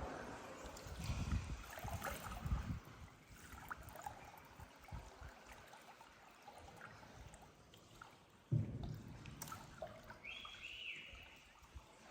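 Faint trickling and lapping water, with a few soft low knocks. A brief high squeak comes near the end.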